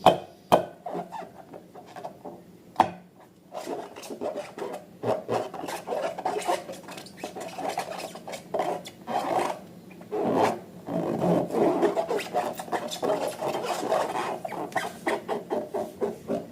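Slime being squished and mixed by hand: a continuous wet, crackly rubbing with many small clicks, and a few sharper snaps near the start and about three seconds in.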